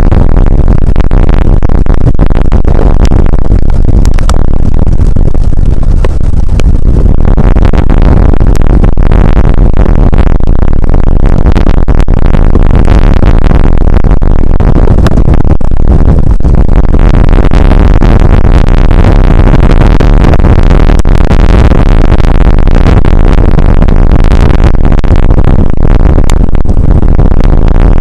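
Rain and wind on an outdoor weather camera's microphone, overloaded into a loud, distorted, crackling roar that is heaviest in the low end and never lets up.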